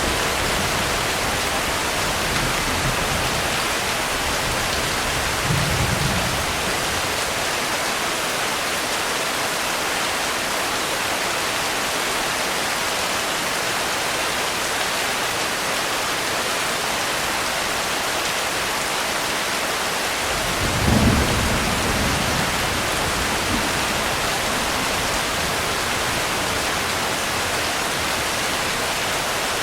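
Steady rain with two low rumbles of thunder: a softer one about six seconds in and a louder one about two-thirds of the way through.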